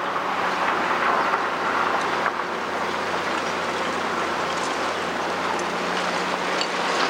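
Caterpillar 345D tracked excavator working: its diesel engine runs with a steady low hum under a broad mechanical rushing noise, with a few faint clicks and clanks.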